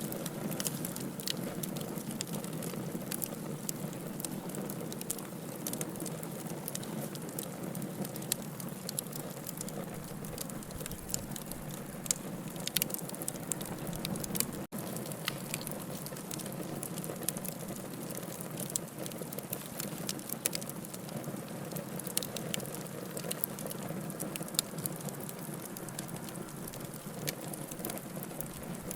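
Log fire burning in a fireplace: a steady low rush of flames with frequent sharp crackles and pops from the burning wood. A split-second break in the sound about halfway through.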